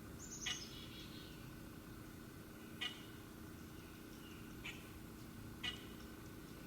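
Wild birds calling: a quick high twitter that falls in pitch at the start, then four short, sharp chip notes spaced irregularly, with fainter softer calls behind. A steady low hum runs underneath.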